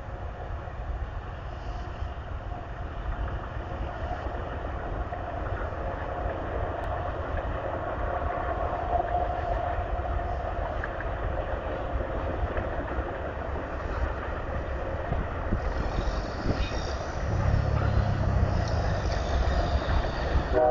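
Union Pacific grain train rolling past, a steady rumble of the freight cars on the rails, with a deeper rumble swelling for a couple of seconds near the end.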